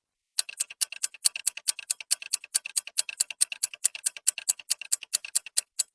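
Countdown clock ticking sound effect: a fast, even run of sharp ticks, several a second, starting about half a second in.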